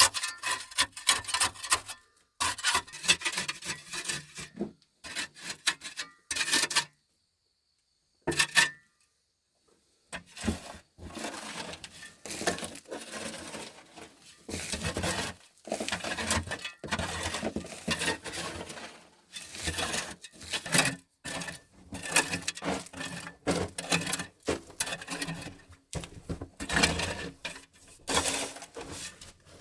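Irregular strokes of scraping and clattering, broken by a few seconds of silence about seven seconds in.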